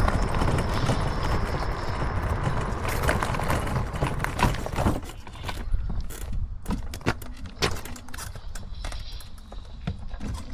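Rushing wind and rolling noise while riding, easing about halfway through into irregular clicks and knocks of a small electric ride-on vehicle's frame and fittings rattling over the path.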